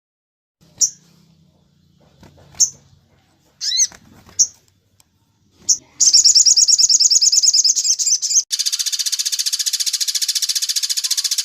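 Recorded songbird calls: a few short, high, sweeping chirps spaced a second or so apart, then a fast high trill from about six seconds in. At about eight and a half seconds it switches to a harsher, buzzing rapid rattle.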